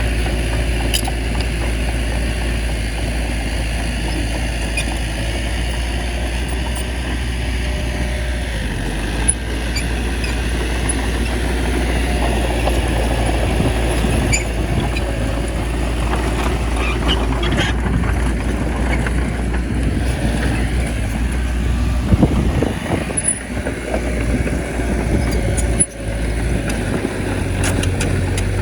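Bulldozer's diesel engine running steadily with a deep drone, with occasional sharp clanks from the machine.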